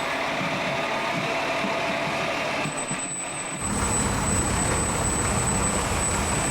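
A large vehicle's engine running, with a heavier low rumble coming in about three and a half seconds in.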